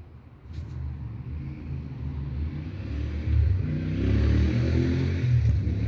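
Thunder rumbling, building over about three seconds and staying loud through the second half.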